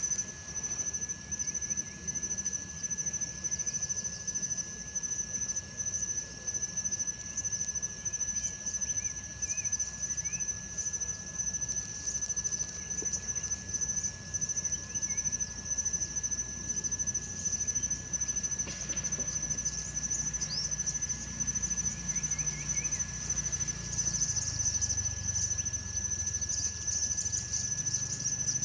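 Crickets chirping in a continuous high-pitched trill, with a fainter steady tone lower down and a low background hum.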